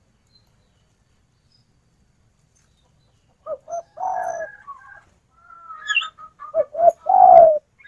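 Spotted dove cooing, in the title's words a female calling a male. It gives two phrases about three seconds apart, each two short notes followed by a longer, drawn-out coo, the second phrase louder. Fainter higher chirps come between them.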